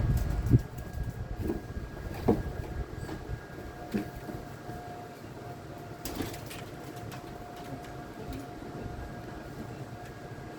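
Electric boat motor giving a faint steady whine, with a few scattered knocks and bumps. A low rumble fills the first half second and then drops away.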